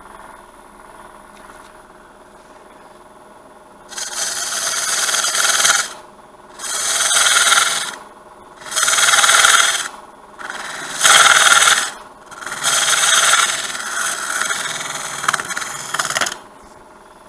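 A wood lathe running steadily, with a turning tool cutting into the spinning green sweet gum blank in five passes of one to four seconds each, starting about four seconds in.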